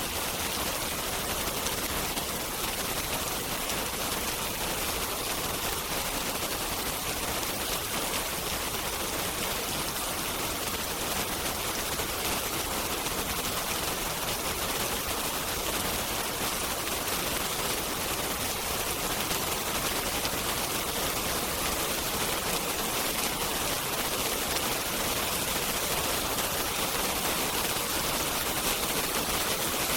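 Steady heavy rain mixed with a crackling wood fire, an even hiss dotted with small pops.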